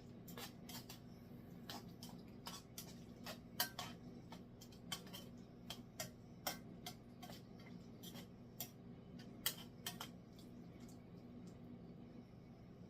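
Faint, irregular clicks and taps of a utensil stirring frozen peas into a skillet of vegetables, over a low steady hum.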